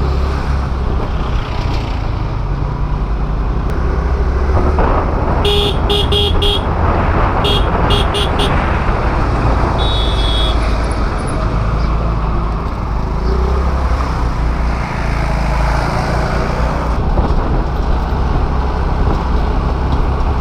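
Steady rumble of a moving scooter and the air rushing past it, with a vehicle horn tooting in a quick string of short beeps about five to eight seconds in and once more shortly after.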